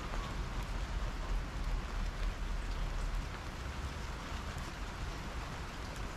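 Steady soft rain falling on a wet patio table and garden plants, with faint scattered drop ticks and a low rumble underneath.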